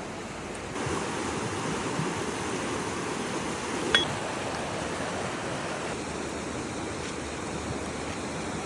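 Steady rushing noise that grows a little louder about a second in, with a single sharp click midway.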